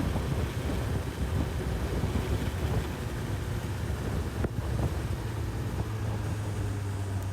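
Honda CB1000R inline-four engine running under way, with wind rushing over the microphone; near the end the engine's note turns steady.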